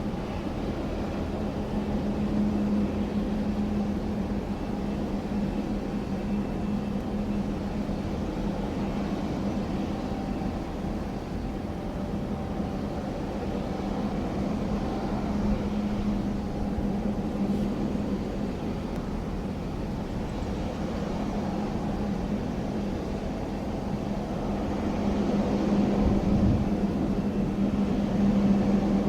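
Jet airliner engine noise at an airport: a steady drone with a constant low hum, growing somewhat louder in the last few seconds.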